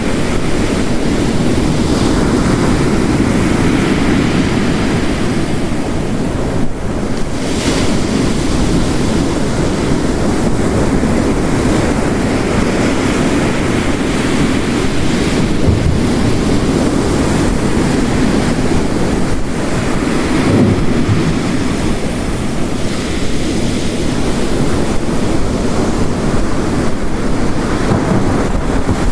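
Layered storm ambience: heavy rain and ocean waves crashing on a coast, blended into a steady, dense wash of noise.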